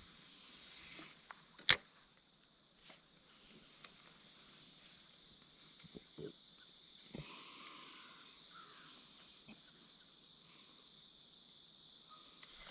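Steady high chirring of an insect chorus along the river, with one sharp click a little under two seconds in and a couple of faint knocks later.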